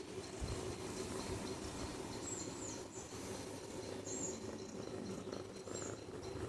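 A few short, faint high chirps over a steady low hum and background noise.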